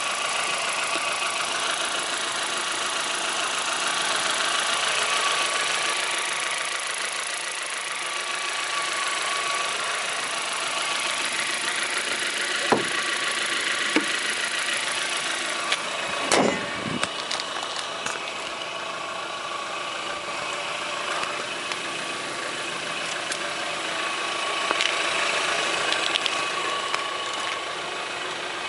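Lifan Breez's 1.6-litre four-cylinder petrol engine idling steadily under an open bonnet. A couple of knocks are heard past the middle, followed by a heavier thump as the bonnet is shut, and the idle sounds duller afterwards.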